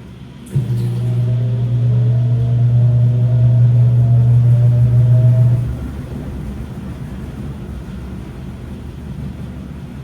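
Washing machine's drum motor starting suddenly about half a second in with a strong low hum and a faint whine that rises slowly, turning the drum for about five seconds before stopping. A lower, steady rumble of the running machine continues after it.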